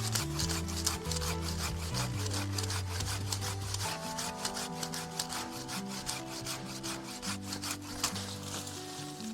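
Hand saw cutting through a loquat tree branch in quick, even back-and-forth strokes, several a second. Background music with held low notes plays underneath.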